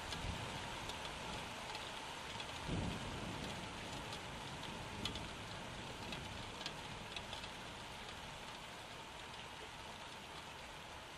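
Steady rain hiss with scattered drops ticking close to the microphone, and a single low thump about three seconds in.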